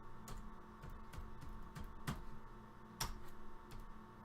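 Sparse keystrokes on a computer keyboard: a few separate clicks, the loudest about two and three seconds in, over a faint steady hum.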